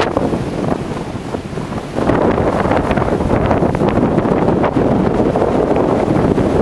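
Strong wind blowing across the microphone as a loud, low rumble, easing a little about a second in and gusting harder again about two seconds in.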